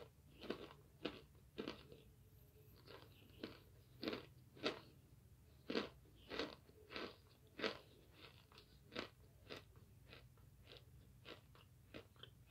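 Someone biting and chewing dry oven-baked starch chunks: a run of sharp, crisp crunches, one to two a second.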